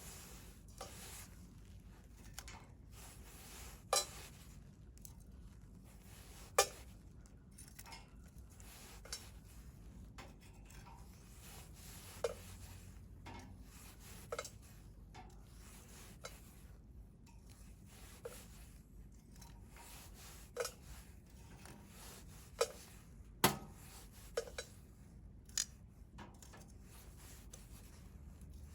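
Wood fire crackling in a stainless steel fire grill: a dozen or so sharp, irregular pops and snaps over a low steady hiss, the loudest pop about two-thirds of the way through.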